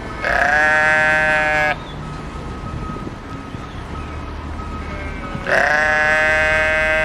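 Sheep bleating: two long bleats, one near the start and another about five seconds later.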